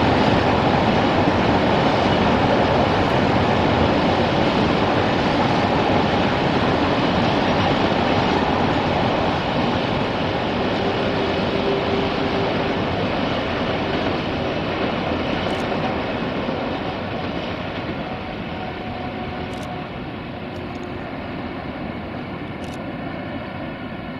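Freight train wagons rolling along the track in a steady rumble of wheels on rail, slowly fading as the train draws away. A faint steady hum comes in near the end.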